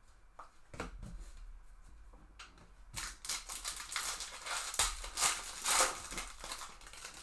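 Crinkling and tearing of a foil trading-card pack wrapper being ripped open, with cards handled. The rustling comes in scattered snaps at first and grows denser and louder from about three seconds in.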